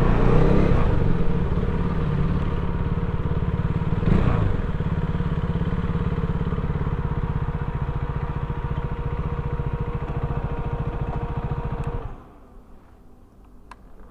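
Motorcycle engine idling with a steady, rapid firing beat, then switched off about twelve seconds in.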